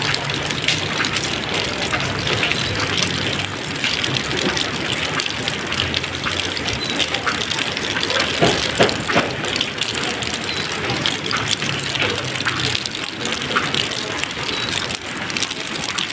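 Steady rain, a continuous hiss with many separate drops and splashes standing out from it.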